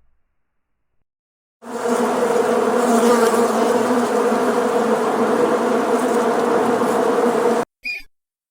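A swarm of insects buzzing, a dense steady buzz that starts about a second and a half in and cuts off suddenly near the end, followed by a couple of short high chirps.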